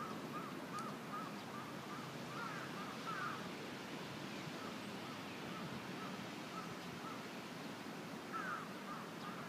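A bird calling a long run of short chirps, about three a second, that fade in the middle and come back stronger near the end, over steady outdoor background noise.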